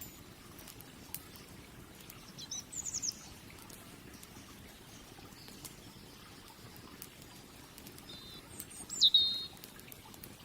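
Wood fire crackling with scattered sharp pops over a low steady hiss, while a small bird calls twice: a short run of chirps about two and a half seconds in and a louder burst of chirps about nine seconds in.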